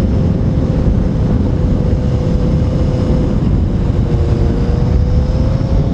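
Motorcycle riding at speed: a dense low rumble of wind on the camera microphone, over a faint steady engine note that dips about four seconds in and then climbs again.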